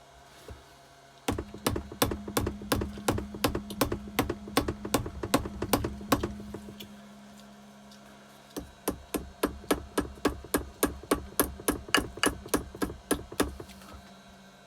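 A power tool with a motor hum and a rapid run of sharp clicks, about five a second, working a stuck fastener or part on a motorcycle engine. It runs in two bursts of about five seconds each, with a pause of about a second and a half between them.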